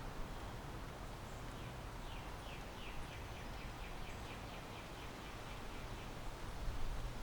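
Backyard ambience: a steady low background rumble, with a bird chirping a quick run of short high notes, several a second, through the middle.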